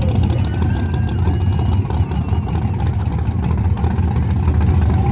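Car engine running loud and steady, with a deep low rumble.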